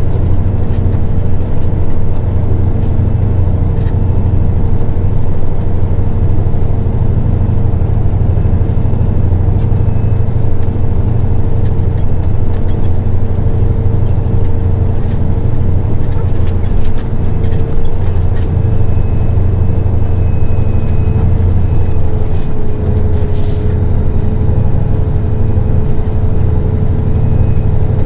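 Semi truck running down the road, heard from inside the cab: a steady, loud low engine and road drone with a steady whine above it.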